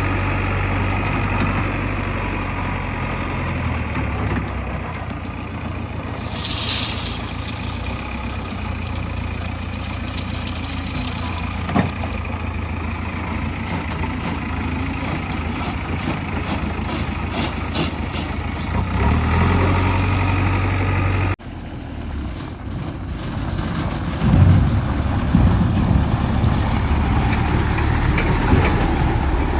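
Diesel engines of a JCB 3DX backhoe loader and a Sonalika tractor running steadily while the backhoe loads the tractor's trolley. There is a short hiss about six seconds in, and the sound changes abruptly about two-thirds of the way through.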